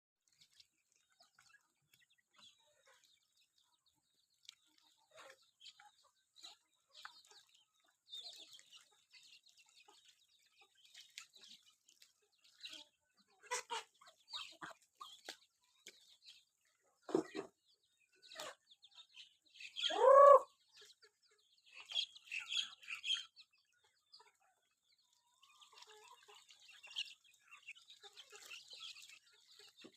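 Free-range village chickens clucking with scattered short calls, one loud drawn-out squawk about two-thirds of the way through.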